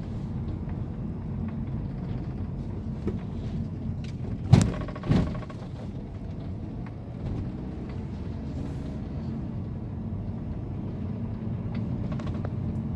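2011 Mini Countryman driving on a test drive: steady engine and road rumble, with no creak from the rear suspension now that the worn rear stabilizer bar bushings and links have been replaced. Two brief louder noises come about four and a half and five seconds in.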